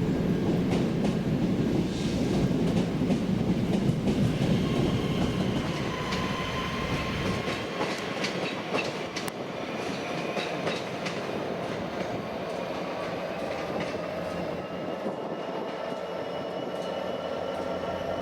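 Train running through the station: a heavy rumble that eases off after about seven seconds, with wheels clicking over rail joints in the middle and thin high tones slowly sliding in pitch later on.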